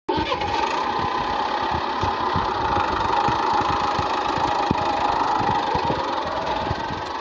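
A motor running steadily, with a fast, irregular clatter under a constant mid-pitched hum.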